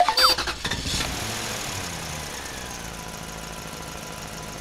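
Car engine running: a burst of clatter in the first second, then it settles to a steady run whose pitch slowly drops.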